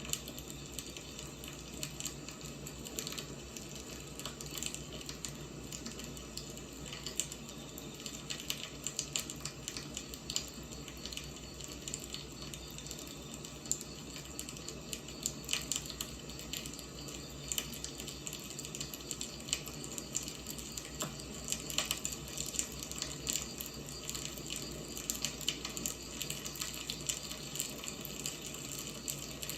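Firewood burning: a steady hiss with constant irregular crackling and small pops, a few sharper snaps standing out.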